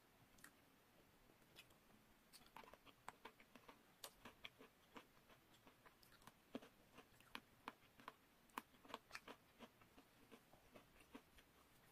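Quiet, crisp crunching of a chocolate-coated biscuit stick being bitten and chewed close to the microphone: a quick run of sharp little snaps that starts about two seconds in.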